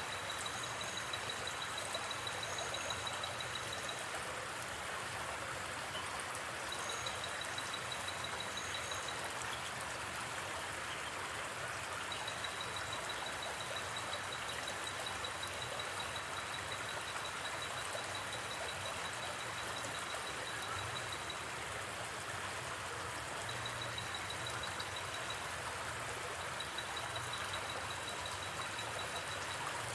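Steady rush of a gently flowing river. Over it, a high, rapidly pulsed trill of night forest sounds comes and goes in runs of a few seconds.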